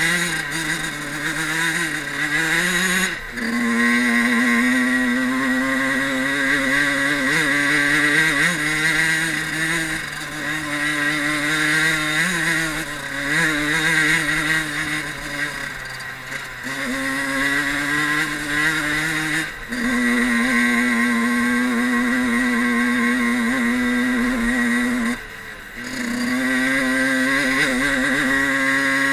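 Fantic Caballero 50 Regolarità's small two-stroke engine running hard under way, heard from onboard; its pitch holds fairly steady, with a few brief dips in loudness.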